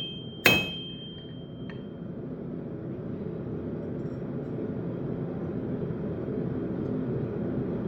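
A single blacksmith's hammer blow on steel over an anvil about half a second in, leaving a high metallic ring that fades over the next second and a half. After it a steady low roar carries on with no more strikes.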